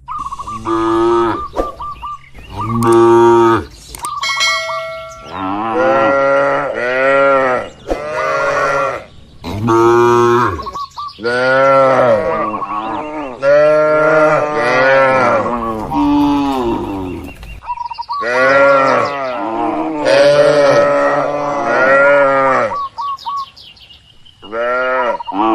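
Cattle mooing over and over, one call after another with short pauses and some calls overlapping, some deep and some higher-pitched.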